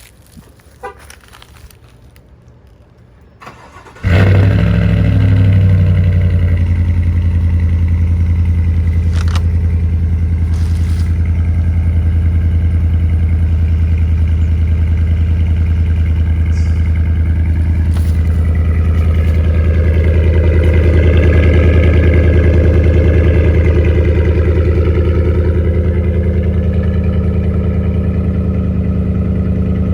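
2019 Chevrolet Silverado pickup's engine cold-started about four seconds in, after a few faint clicks: it fires abruptly and settles into a steady, loud idle that swells a little and eases back about twenty seconds in.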